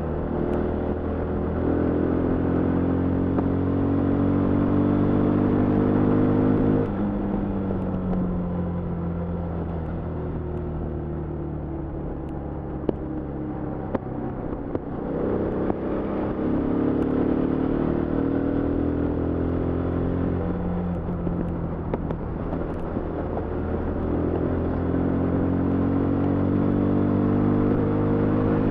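Yamaha FZ25's single-cylinder engine and stock exhaust, heard onboard while riding. The engine note climbs under throttle for about five seconds, drops suddenly about seven seconds in and falls away slowly, then climbs again twice.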